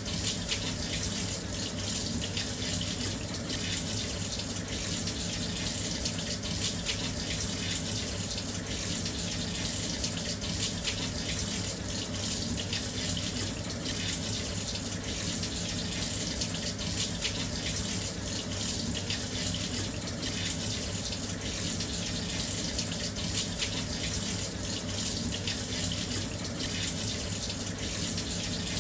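Washing machine filling with water: a steady, even rush of water pouring in, with a low steady hum beneath it.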